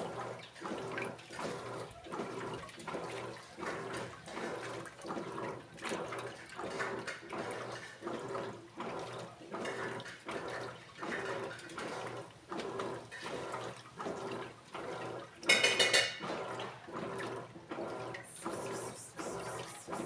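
Electrolux Essential Care 14 kg (LED14) washing machine agitating a load of laundry: water sloshing in the tub in a steady rhythm of strokes, about three every two seconds. A brief louder clattering burst comes about three-quarters of the way through.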